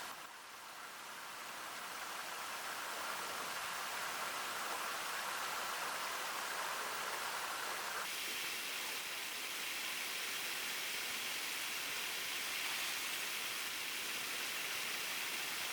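Steady hiss of outdoor background noise, its tone changing abruptly about halfway through.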